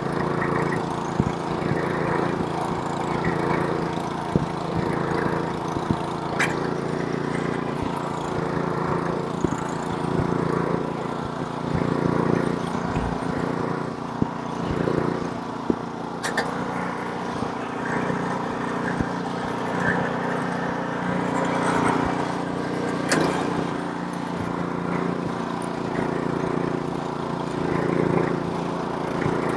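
Snowblower's small gas engine running steadily under load, with the hiss of snow being thrown and a few sharp clicks or knocks.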